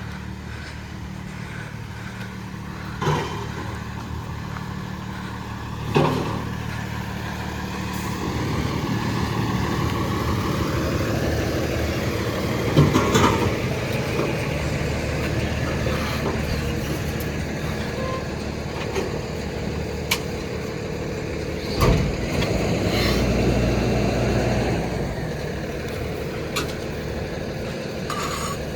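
Refuse truck's diesel engine running, revving up for several seconds as it works, with sharp metallic clanks and knocks about 3, 6, 13 and 22 seconds in.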